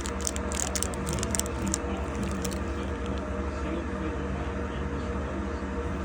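A sleeping pit bull snoring and breathing over a steady low hum, with a run of small clicks and crackles in the first two seconds or so.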